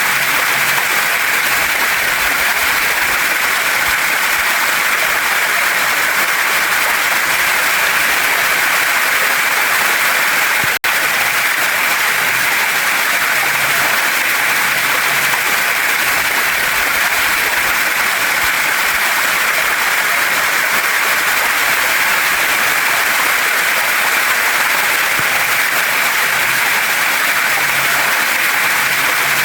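Waterfall and mountain stream rushing over rocks: a steady, even rush of water that cuts out for an instant about eleven seconds in.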